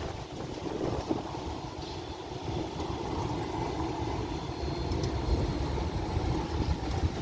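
Tram running by on the street, a steady rumble that slowly grows louder.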